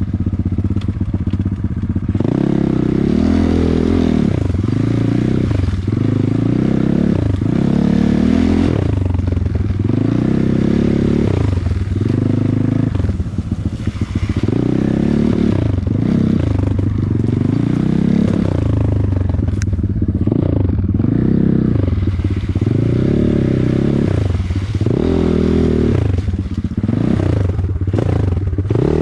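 Off-road motorcycle engine being ridden on rough ground, the throttle opened and closed over and over so the engine rises and falls in pitch about every second or so, with rattling from the machine.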